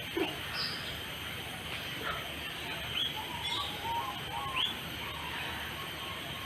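Birds calling: scattered short chirps and brief whistled notes, some of them rising, over a steady background hiss.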